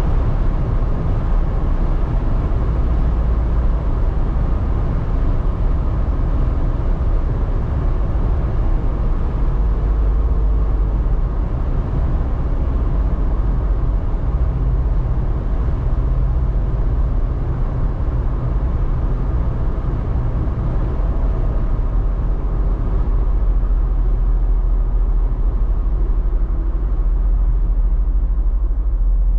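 The 2024 Jeep Wrangler Rubicon 392's 6.4-litre Hemi V8 running, with a steady low rumble as the vehicle drives, without any clear revving.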